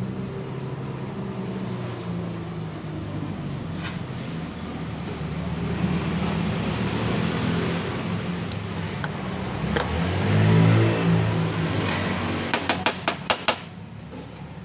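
Yamaha Mio scooter's single-cylinder four-stroke engine running at idle, briefly revved up and then eased off. Near the end comes a quick run of about seven sharp pops or clicks, after which the engine sound drops away.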